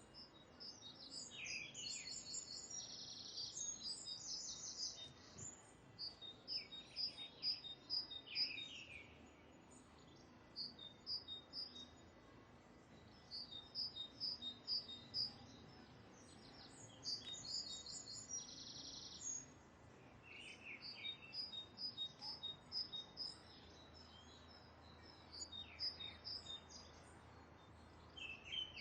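Small birds calling: runs of quick high chirps repeated in bursts every few seconds, over a faint steady background hiss.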